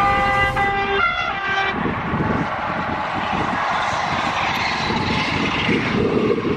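High-speed train's horn sounding two blasts, the second about a second in. The horn gives way to the steady rushing rumble of the train going by.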